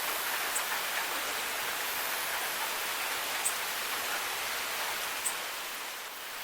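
Steady rain falling, an even hiss with three sharp drip ticks spread through it.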